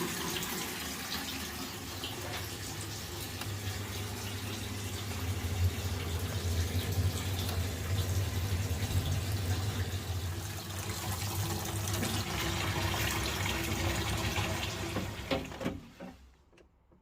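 Water running steadily from a tap, with a low hum underneath through the middle stretch; the flow stops about sixteen seconds in.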